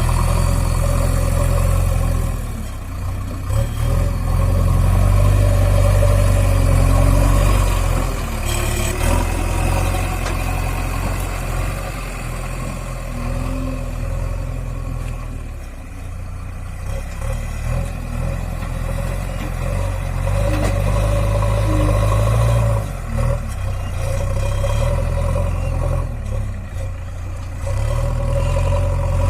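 Diesel engine of a JCB 3DX backhoe loader running under varying load, its sound swelling and easing as the machine works, with a brief clatter about eight seconds in.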